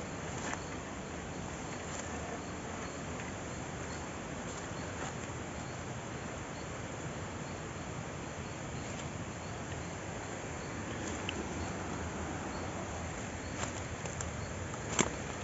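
Forest ambience: insects chirping in a steady repeating pulse over a constant hiss, with a few sharp clicks near the end.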